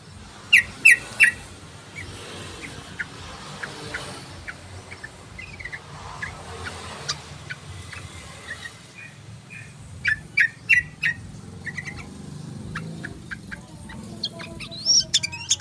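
Yellow-vented bulbul (trucukan) calling in a series of short, sharp chirps, loudest in quick clusters of three about half a second in and again about ten seconds in, with a run of gliding notes near the end.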